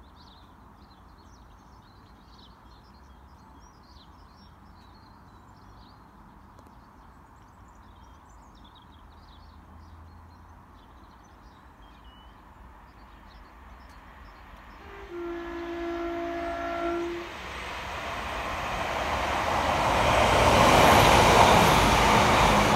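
Faint birdsong over quiet background, then an approaching two-car diesel multiple unit sounds its horn in one blast of about two seconds, after which its engine and wheels on the rails grow steadily louder as it passes close by.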